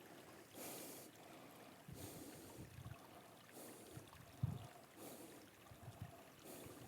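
Near silence: faint outdoor ambience with a few soft hisses and a low thump about four and a half seconds in.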